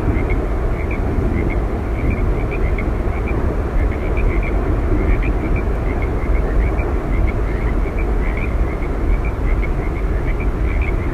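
Steady rushing roar of Yosemite Falls, deepest in the low range and unbroken, with small high chirps repeating several times a second above it.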